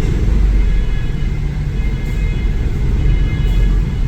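Steady low vehicle rumble heard from inside a car's cabin, with a faint thin high whine over it from about a second and a half in.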